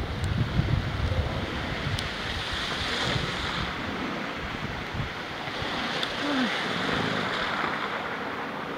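Wind buffeting the microphone, a low rumble strongest in the first second or so, over a steady rushing hiss that swells about three and seven seconds in.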